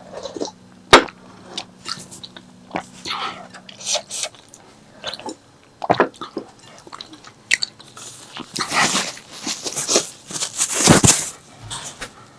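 Close-miked eating: biting and chewing with wet smacks and sharp mouth clicks. The busiest, loudest stretch of chewing comes in the last few seconds.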